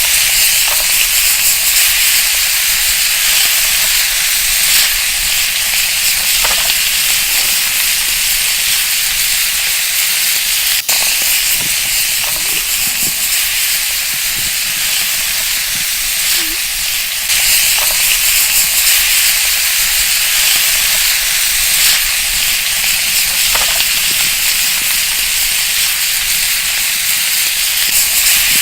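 Pig kidneys sizzling on a hot steel plate: a loud, steady frying hiss with a few small pops.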